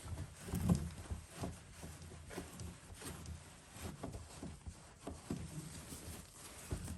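Cloth wiping and scrubbing inside a Miele W1 washing machine's drain-pump filter housing, with irregular light knocks and rubbing against the plastic flaps and pump parts.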